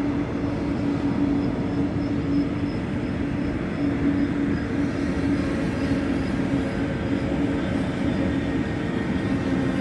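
Train running through the station: a steady, loud rumble with a constant hum and a few steady whining tones.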